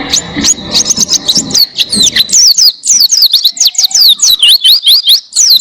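White-eye (pleci) singing a long, fast run of high chirps, with quick falling and rising notes following one another without a break, several a second.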